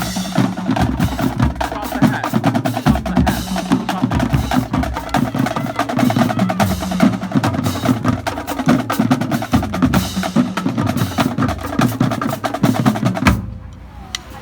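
Marching drumline of snare drums, multi-tenor quads and bass drums playing a fast, dense cadence, which cuts off sharply about a second before the end.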